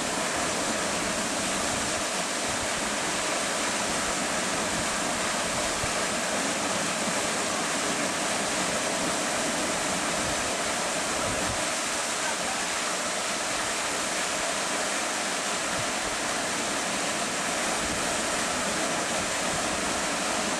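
Steady rushing of falling or fast-flowing river water, an even unbroken roar.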